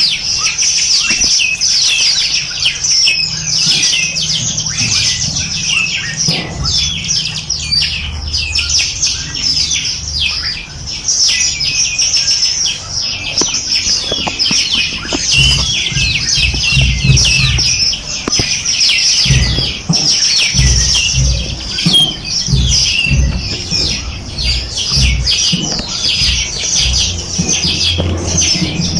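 Dense chorus of many small songbirds chirping and twittering rapidly over one another without a break, with a low rumble coming and going beneath.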